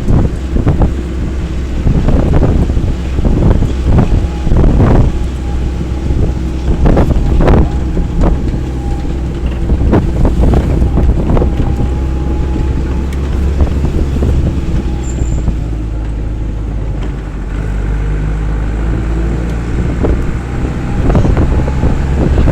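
A vehicle riding over a rough road: a steady low rumble, with wind buffeting the microphone and frequent short knocks, most of them in the first half.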